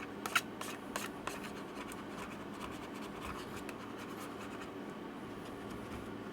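Light scratching and clicking of hands and a tool working on an open laptop, a handful of sharp clicks in the first second and a half. After that only a steady faint hum remains.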